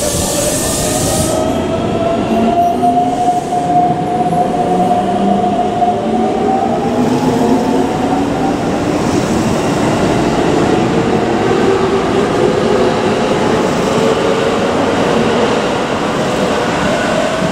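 Electric commuter train on the Keikyu line running at a station, its traction motors whining in several tones that slowly rise in pitch as it gathers speed, over steady wheel and running noise, with a brief hiss right at the start.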